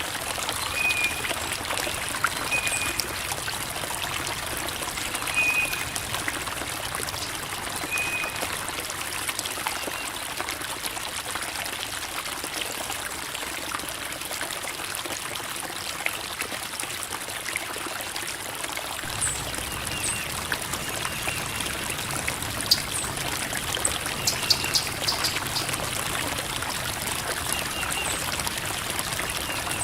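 Creek water babbling and trickling over rocks, a steady even flow. A few short high chirps come through it in the first eight seconds and again near the end.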